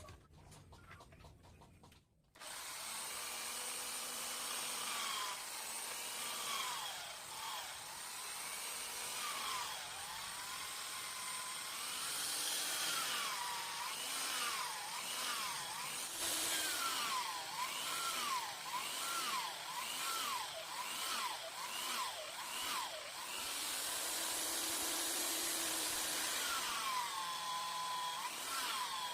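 A small handheld electric power tool works on wood. Its motor whine dips in pitch and recovers again and again as it bites under load.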